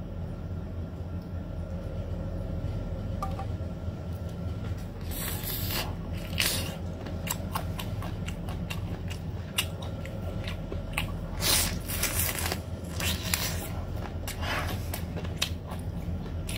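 Boneless black-chicken feet in chilli sauce being bitten and chewed close to the microphone: a run of irregular small clicks and squishes, denser in a couple of stretches, over a steady low hum.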